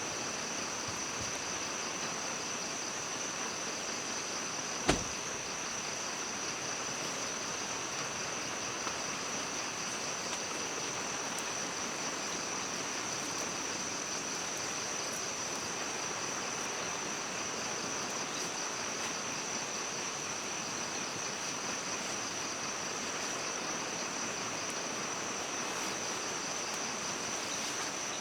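Forest ambience: a steady, pulsing high-pitched insect chorus over a hiss like running water, with one sharp click about five seconds in.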